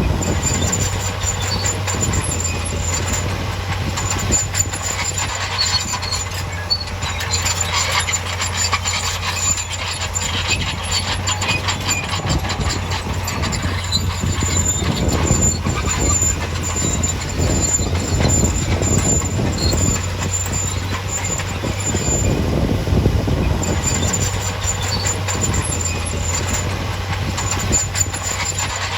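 Heavy diesel earthmoving machinery running steadily, with continual metallic clanking and rattling and an intermittent high squeal.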